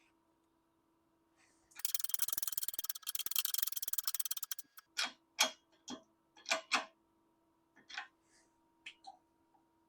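A fast run of clicks lasting about three seconds, then about eight separate sharp clicks and taps, over a faint steady hum: hand tools and parts being handled during the assembly of a milling machine head.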